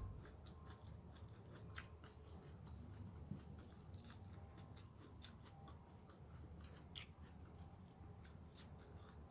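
Faint chewing of crisp raw vegetable salad: a string of small, irregular crunching clicks.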